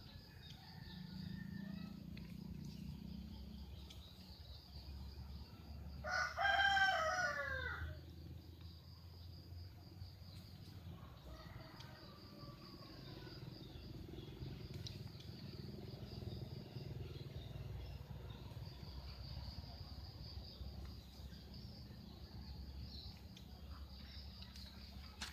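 A rooster crows once, a call of about two seconds starting about six seconds in, over a steady high-pitched buzz and low background rumble. Another crow begins right at the end.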